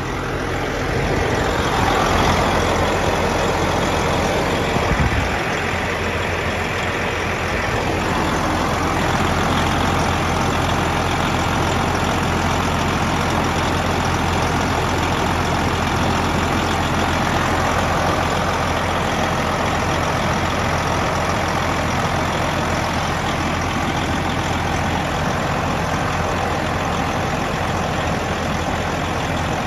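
A vehicle engine running steadily under a broad haze of noise, a little louder for the first several seconds.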